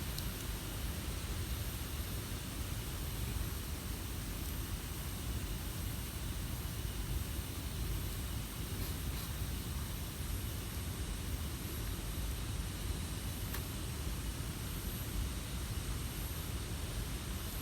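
Wood campfire burning: a steady low rumble and hiss with a few faint pops.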